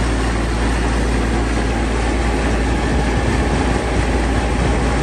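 Tractor engine running steadily as the tractor drives along, with a strong, even low drone and no change in speed.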